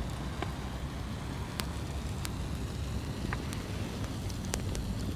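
Campfire crackling, with scattered sharp pops, about one or two a second, over a steady low rumble.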